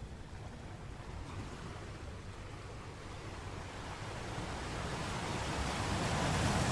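Sea surf: a wave washing in, swelling steadily from about halfway through to a peak at the end, over a low rumble of the sea.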